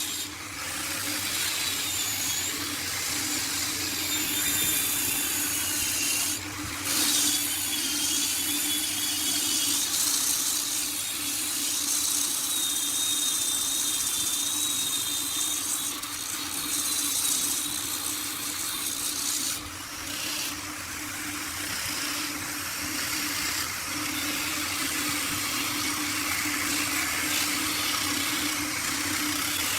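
Wood lathe running with a steady motor hum while a turning tool cuts the spinning wood, a continuous hiss with a thin wavering high whine. The sound shifts abruptly a few times, at about six seconds and again near twenty seconds.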